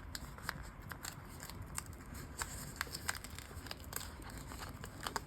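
Faint, irregular small clicks and rustles of a paper sticker sheet being handled on a desk.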